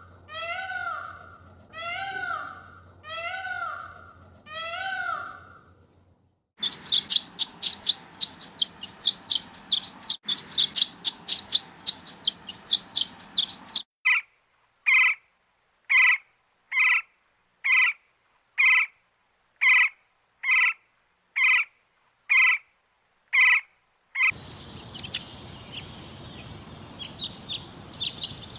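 A kitten meowing five times, about once a second. After a cut, a bird chirps rapidly and high-pitched for about seven seconds. Then comes a short call repeated evenly about once a second for ten seconds, and finally a steady outdoor hiss with faint bird calls.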